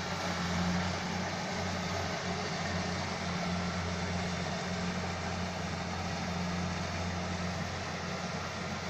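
Combine harvester engine running steadily with a low, even hum.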